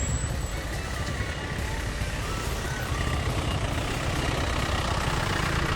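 Steady low rumble of a motor vehicle running, with faint music over it.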